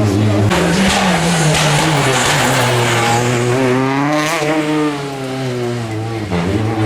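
A World Rally Car's 1.6-litre turbocharged four-cylinder engine revving hard at stage speed. The pitch climbs and falls, peaking around halfway, then drops sharply for a moment near the end as the driver lifts or changes gear.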